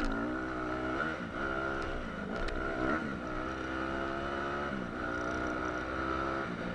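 Four-stroke dirt bike engine running under throttle, its pitch dropping and climbing again several times as the rider rides on.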